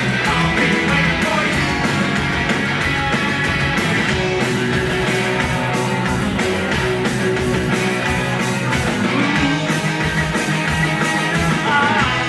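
Rock band playing live, electric guitar and drums driving a steady, loud punk-rock beat.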